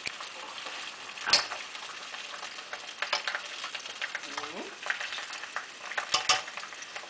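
Sausages frying in a pan: a steady sizzle with scattered sharp clicks, the loudest about a second in and a couple more around six seconds.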